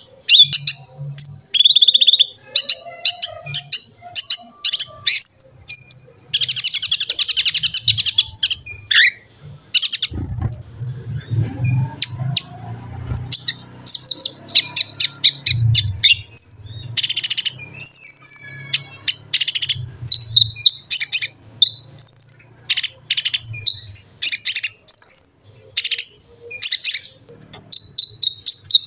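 Konin (kolibri ninja) sunbird singing a fast, varied, high-pitched song of rapid chirps and trills, with a dense buzzy trill about a quarter of the way in. A faint low hum runs under it in the middle.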